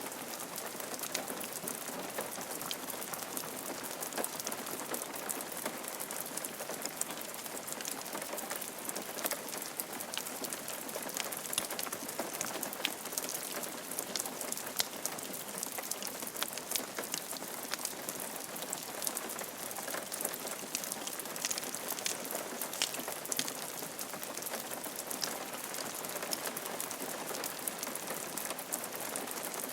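Steady rain falling on a roof, a constant hiss with many close drop ticks.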